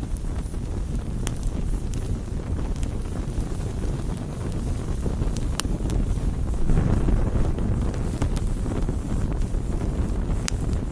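Wood campfire burning: a steady low rush of flames with scattered sharp crackles and pops, swelling briefly about seven seconds in.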